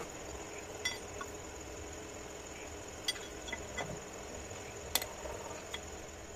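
Steady low background noise with a faint, thin high whine, broken by a handful of short sharp clicks or taps; the loudest comes about five seconds in.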